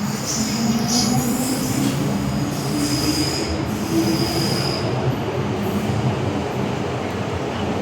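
Inside an MTR M-Train metro car running on the Island Line, with a faint high-pitched brake squeal (the weak "ghost scream" of car B401) over the running noise for the first five seconds, alongside lower whining tones that climb in pitch.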